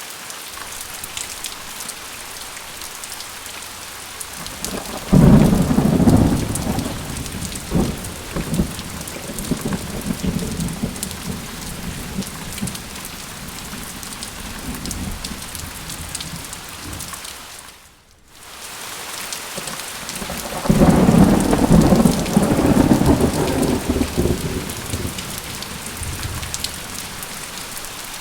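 Steady rain with two long rolls of thunder, the first starting sharply about five seconds in and the second about three-quarters of the way through. The sound briefly drops out about two-thirds of the way through.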